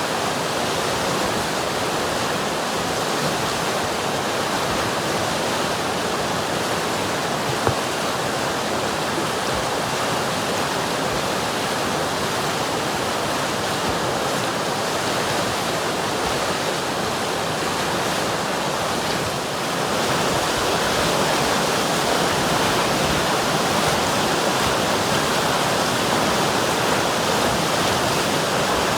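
River water rushing steadily over its bed, an even splashing hiss that grows a little louder about two-thirds of the way through.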